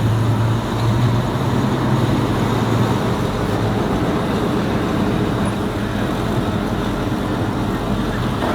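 Car engine running steadily, a low hum over a rumbling noise; the hum eases after about three seconds.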